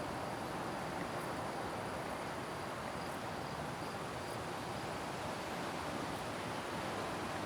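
Summer meadow ambience: faint, steady high chirring of insects over an even rush of background noise.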